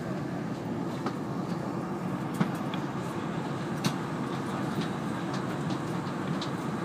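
Interior noise of an E2-series Shinkansen car: a steady low rumble with scattered sharp clicks and two louder knocks near the middle.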